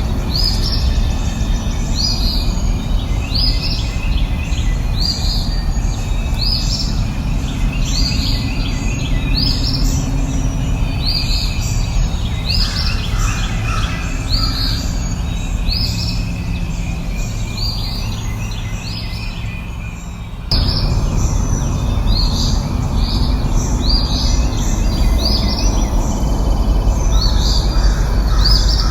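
Songbird chirping, repeating a short high call about once a second, over a steady low background noise that steps up suddenly about two-thirds of the way through.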